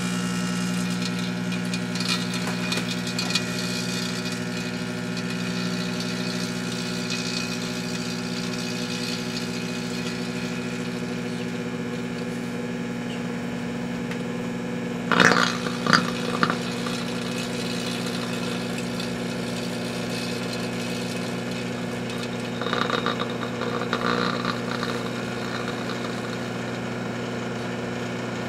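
Sunbeam microwave oven running with a steady electrical hum while a car headlight bulb burns inside it. A few short, louder crackles break through about halfway through and again a little before the end.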